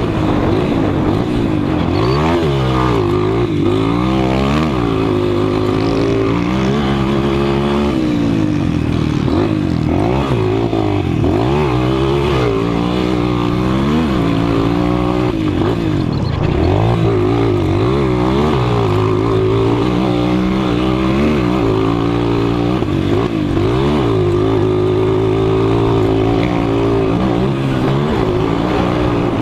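Several 200 cc motocross motorcycles racing, their engines revving up and falling back over and over and overlapping one another as they accelerate, shift and corner.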